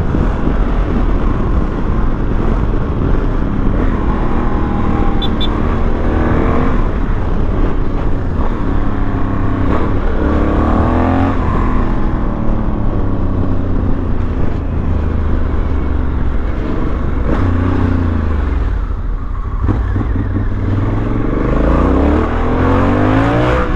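Honda Africa Twin motorcycle engine under way, its pitch rising as it accelerates and falling as it eases off, several times over, with a steady rush of road and wind noise.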